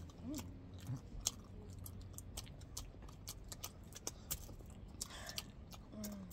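Close-up chewing and biting into sweets, heard as a scatter of irregular short mouth clicks with a few crunches.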